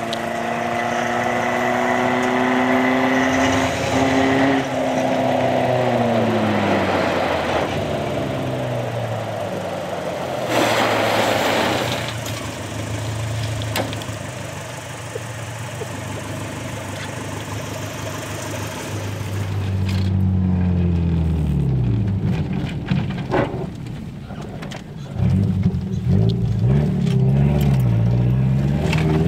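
A small car's four-cylinder engine being driven hard, revving up and falling back again and again. Knocks and rattles come from the car as it bounces over the rough trail.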